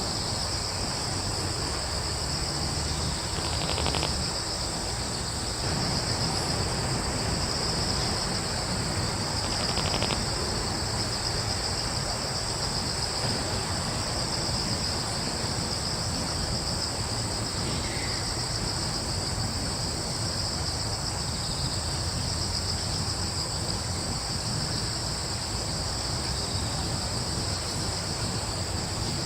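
Crickets and other insects chirping in a steady, unbroken chorus, high-pitched, over a low steady rumble. A few faint brief sounds come through about 4, 10 and 18 seconds in.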